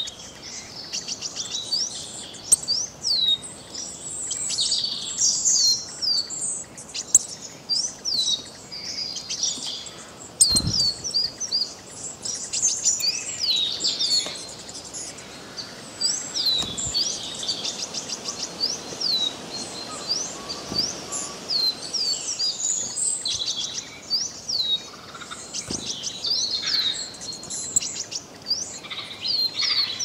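Small birds chirping throughout, with many short high notes sliding down in pitch and several fast trills. A faint background hiss runs beneath them.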